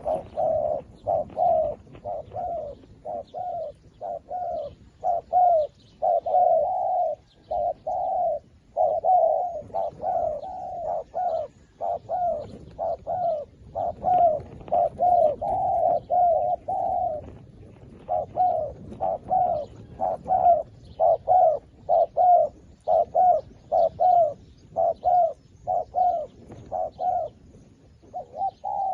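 Zebra dove cooing: a long, rapid run of short, soft-edged coo notes, about two to three a second, broken by a brief pause about two-thirds of the way through.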